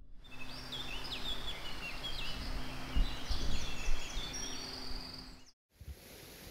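Birds singing: a busy run of quick chirps and whistled notes over a steady low hum with some low rumbling. It cuts off suddenly about five and a half seconds in, and a steady rush of mountain-stream water follows.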